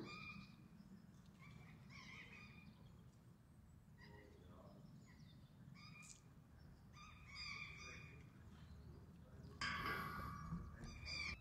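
Birds calling in short repeated calls a second or two apart, over a low steady background rumble; the loudest call comes near the end.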